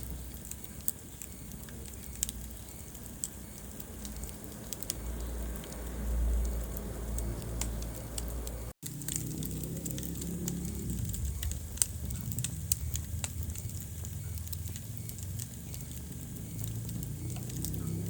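Wood fire burning in a fireplace: frequent sharp crackles and pops over the low rumble of the flames. The sound cuts out for an instant about halfway through.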